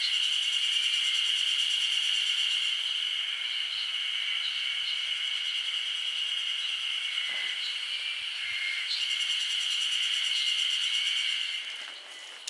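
Steady chorus of insects calling, a high-pitched pulsing trill that drops away near the end.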